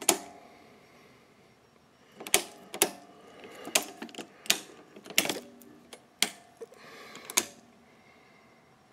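About eight sharp clacks and knocks of hard objects being handled, irregularly spaced over several seconds. Several leave a brief metallic ring.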